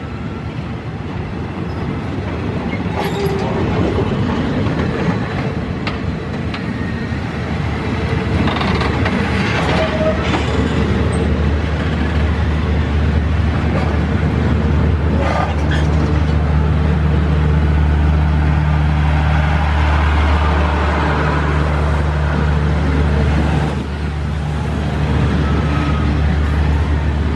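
Passenger coaches of a diesel-hauled train rolling past close by: a loud, steady rumble of wheels on the rails with a few sharp clacks. A steady low hum joins about ten seconds in as later cars go by.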